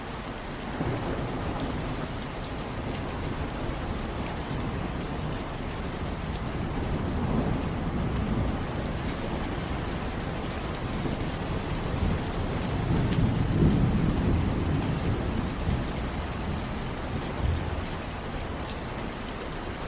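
Steady heavy rain falling, with low rolling thunder that swells and fades several times, loudest about two-thirds of the way through.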